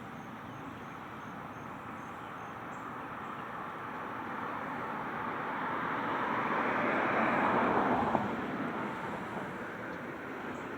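A vehicle passing on the road, its tyre and road noise swelling to a peak about seven to eight seconds in and then fading away, over a steady outdoor hiss.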